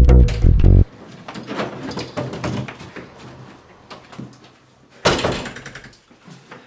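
A plucked double-bass music cue ends about a second in. Knocks and rustling follow as a hard-shell suitcase is brought in through a front door, and the door shuts with a loud bang about five seconds in.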